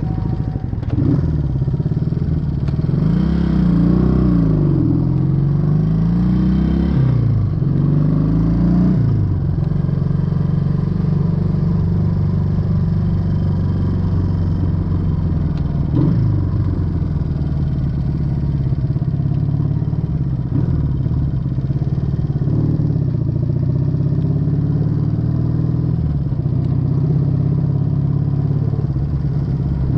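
1968 Honda Dream CD250 motorcycle's twin-cylinder engine and exhaust, heard from the rider's seat while riding. In the first ten seconds the engine note rises and falls several times as it revs up and drops back, then it settles into a steadier cruising note with a few smaller swells.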